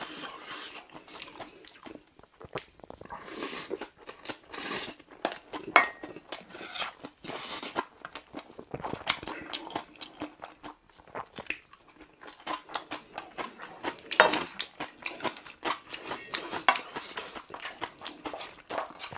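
Eating sounds: chewing and smacking on mouthfuls of bibimbap, with a wooden spoon scooping and clinking in a metal yangpun mixing bowl. Irregular wet clicks and smacks come in quick succession throughout.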